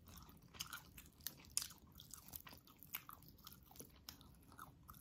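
Close-up chewing and biting of tender, fatty stewed beef rib meat: faint wet mouth smacks and small clicks, a few sharper ones.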